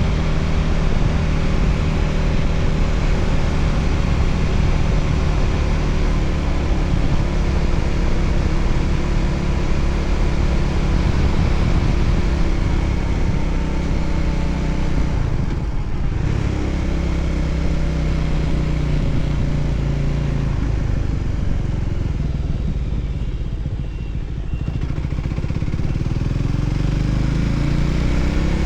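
Voge 300ACX motorcycle engine running under way, heard from the bike with wind rushing past. The engine briefly drops off about halfway through, eases off for a few seconds later on, then rises in pitch as it accelerates near the end.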